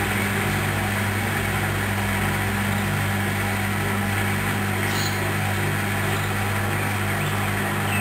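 Hoover Dynamic Wash 10+ washing machine running steadily with a low hum during a wash programme.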